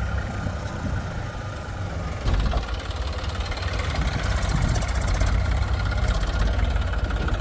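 Heavy diesel engine running steadily at low revs, getting louder about two seconds in as it takes on more throttle or load.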